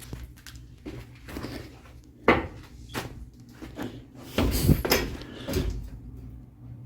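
Irregular knocks and clunks of someone moving about and handling things in a boat's engine room. There is a sharp single knock a little over two seconds in and a louder cluster of clatter around four and a half to five seconds in.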